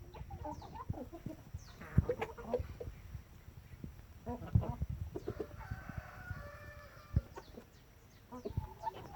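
Chickens clucking in short, irregular bursts, with a longer drawn-out call about six seconds in and scattered low thumps.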